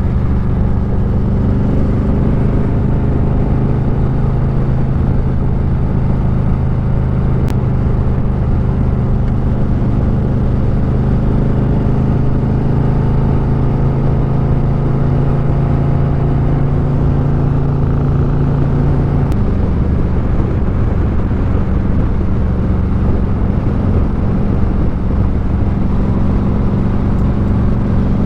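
Motorcycle engine running at a steady cruise under a heavy rush of wind on the microphone. About two-thirds of the way through the engine note drops to a lower pitch and stays there.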